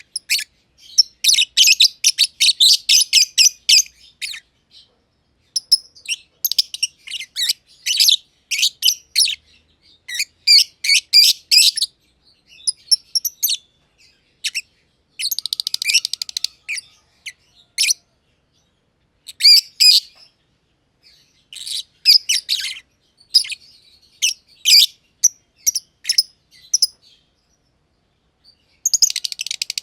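Lovebirds (masked/personata lovebirds) chirping in bouts of rapid, sharp, high-pitched chirps, with short pauses between runs.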